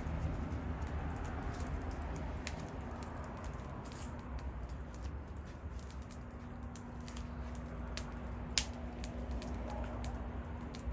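Wood fire crackling, with scattered sharp pops over a low rumble; a faint steady hum comes in about halfway through.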